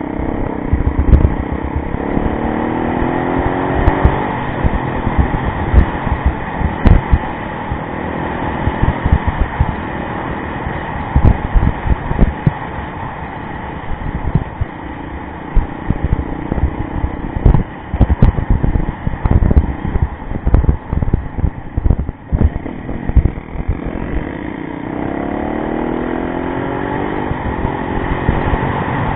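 Yamaha rally motorcycle engine running under way, revving up in rising sweeps near the start and again near the end, with heavy wind buffeting and jolts on the microphone.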